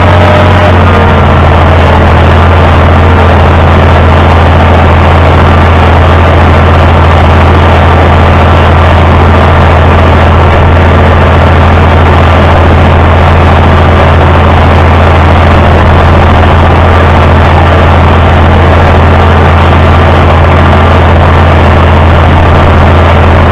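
International Harvester 560 tractor engine running steadily under way, loud and even.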